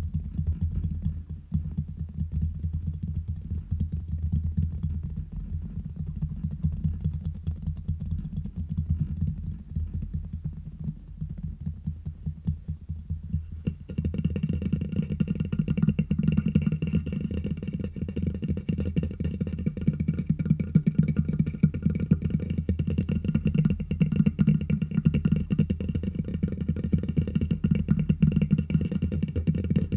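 Fingertips tapping and scratching fast directly on a microphone: a dense, rapid patter of close, deep-sounding taps. About halfway through it gets louder and a brighter, hissier scratching layer joins in.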